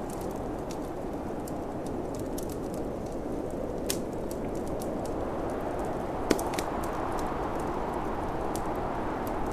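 Wood fire crackling in a fireplace, with scattered sharp pops, two louder ones about four and six seconds in, over a steady low rush of snowstorm wind.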